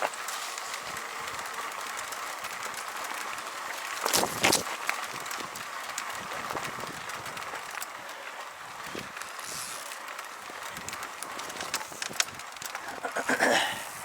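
Bicycle riding on a trail: a steady rush of tyre and wind noise with scattered small clicks and rattles. There are two louder rushes of noise, about four seconds in and near the end.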